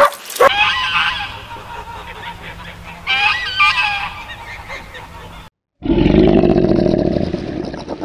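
A flock of barnacle geese honking, in two bouts of calls. After a brief break, a loud, low rumbling growl begins about six seconds in.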